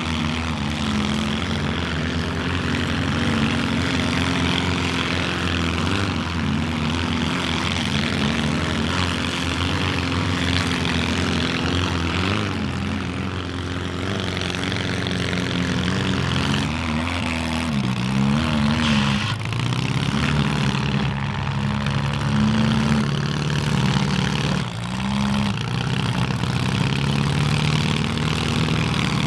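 Engines of compact demolition derby cars running and revving, their pitch rising and falling as the cars manoeuvre and ram each other.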